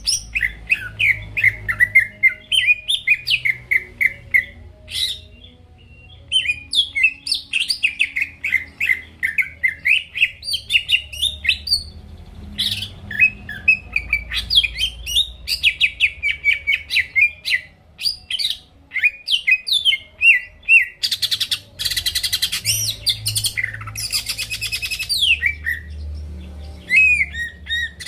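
Cucak ijo (green leafbird) singing a loud, fast, unbroken song of rapid chirps and whistled sweeps. About three-quarters of the way through come harsher, buzzy rasping notes.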